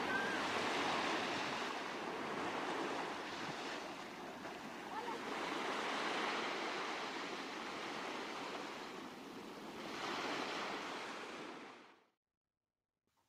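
Ocean surf washing in, swelling and ebbing every few seconds; it cuts off abruptly near the end.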